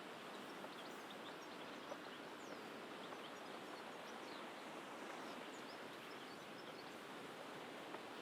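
Faint outdoor coastal ambience: a steady wash of distant sea surf, with many small, high bird chirps scattered throughout.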